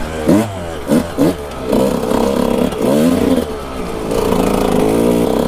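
Dirt bike engine revving in quick bursts, its pitch rising and falling several times as the throttle is blipped over obstacles, then holding steadier near the end.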